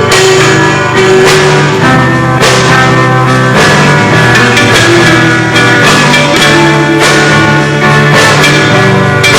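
Rock band playing live at a soundcheck: electric guitar over bass and drums, with cymbal crashes about every second or so, very loud.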